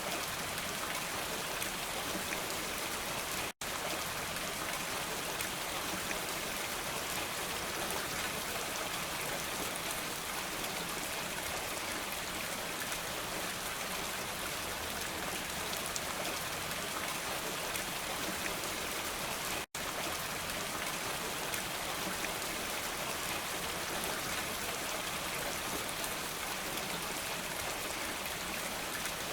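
Steady rain: an even hiss of falling drops. It cuts out to silence for an instant twice, about three and a half seconds in and again near twenty seconds.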